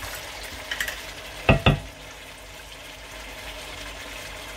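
Chicken curry sizzling in a wok as tamarind sauce is poured in from a bottle and stirred in with a wooden spoon. Two sharp knocks about a second and a half in.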